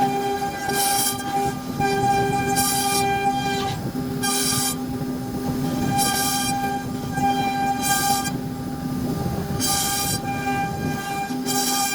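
CNC router spindle whining steadily while carving wood, with a louder, shriller scream returning about every one and a half to two seconds as the bit cuts into the material on each pass.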